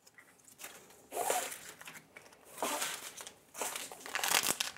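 Plastic wrapping crinkling as it is handled, in three or four short bursts of rustling.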